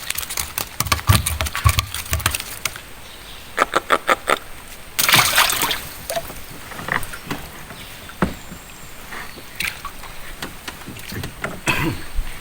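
Water sloshing and splashing around a small boat, with scattered knocks and clicks, a quick run of clicks about four seconds in, and a louder splash just after.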